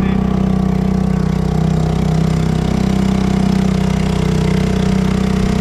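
Dinghy outboard motor running steadily under way, a constant engine drone that cuts off suddenly at the end.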